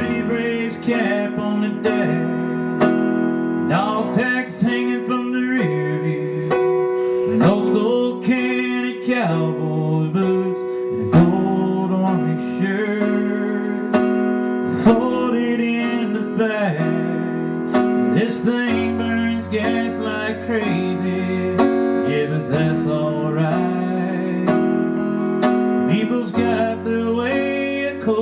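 Electronic keyboard playing sustained chords as the accompaniment to a slow country ballad, performed live.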